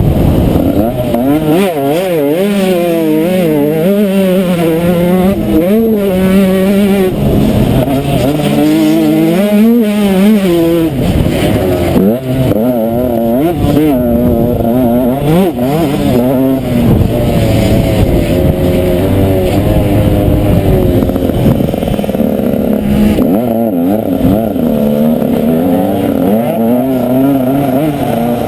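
Motocross bike engine, loud, revving hard with its pitch rising and falling again and again as the rider works the throttle and shifts gears.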